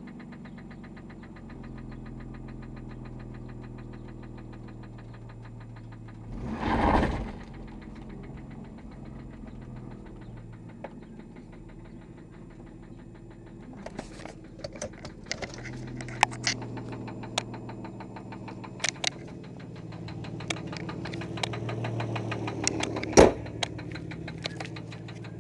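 Infiniti J30's 3.0-litre V6 running with a fast, even knock, which the owner takes for rod knock. About seven seconds in there is a brief loud surge of noise. From about halfway, irregular sharp clicks sound over the engine, with the loudest one near the end.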